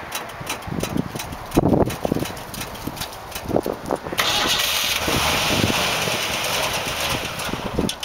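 1985 Chevrolet S-10 pickup's engine on a cold start: it is cranked and fires unevenly in irregular pops for about four seconds, then settles into a steady, louder running sound.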